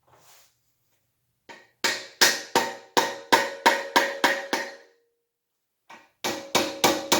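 Hammer blows on a metal part, about three a second, each ringing briefly. About nine blows come in a run, then after a short pause a second run starts near the end. The part is being driven into a tight fit.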